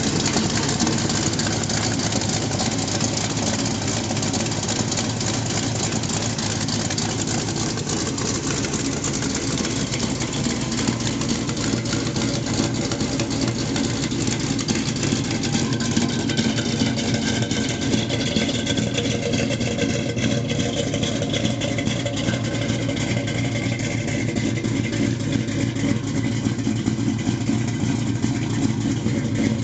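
Built 350 small-block V8 in a 1986 Chevy S10 pickup, idling steadily.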